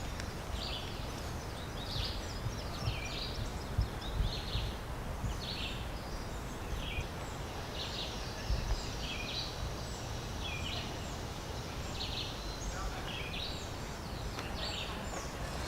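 Birds chirping over and over, short high calls roughly every half second to a second, over a low rumble of wind on the microphone.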